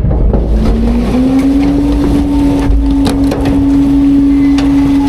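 Autocar front-load garbage truck's engine revving up about a second in and holding a steady whine under hydraulic load as the Heil Half/Pack body packs garbage, over a low rumble with a few sharp knocks.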